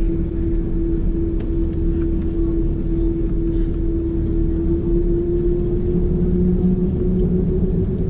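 Airliner cabin noise: a steady low rumble of the engines with a strong steady hum that creeps slightly up in pitch, a second, lower hum joining about six seconds in.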